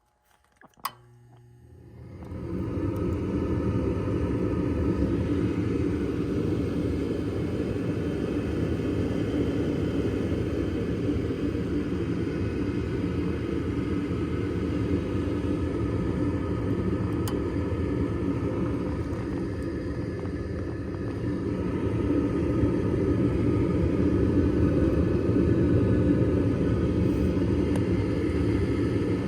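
A relay clicks on, then a Carrier gas furnace motor comes on and settles into a steady buzzing hum and rumble, getting a little louder about two-thirds of the way in. This is the buzzing of a motor that struggles to start even though its run capacitor tests good.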